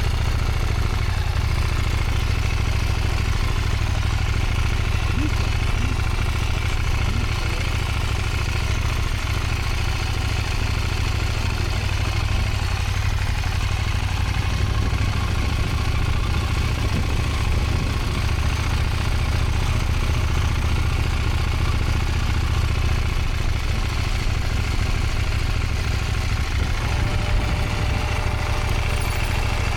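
Motorcycle engine running steadily at low revs, a constant low rumble.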